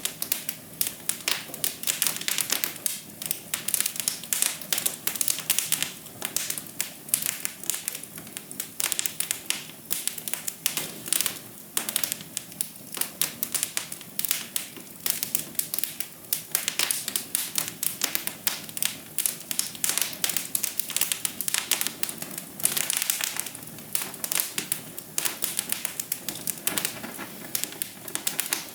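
Wood fire crackling in a fireplace: dense, irregular pops and snaps over a soft, steady low rush of flame.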